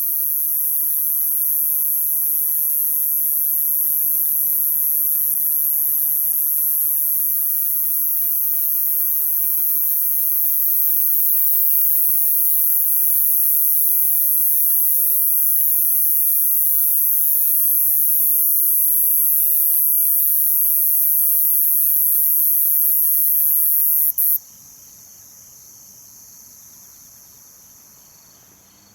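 Night chorus of crickets: a steady, high-pitched shrill with a fainter pulsing chirp beneath it. A little past two-thirds of the way through it drops abruptly to a much quieter level and keeps fading.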